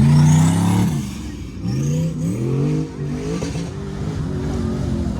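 Prerunner off-road race truck engine revving hard, its pitch falling about a second in, then climbing twice with short drops between before settling to a steadier run.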